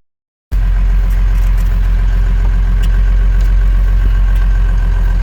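1993 Dodge Power Ram's 5.9-litre 12-valve Cummins inline-six turbo diesel running steadily at a low, even speed. The sound cuts in after a half-second silent gap at the start.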